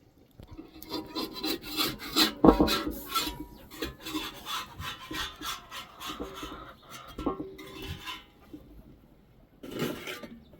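Irregular scraping and rubbing, a quick run of strokes that is loudest about two and a half seconds in, with a short burst again near the end.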